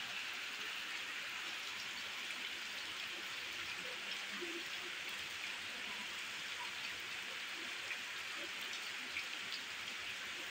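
Steady rain falling on floodwater, an even hiss with scattered drop ticks.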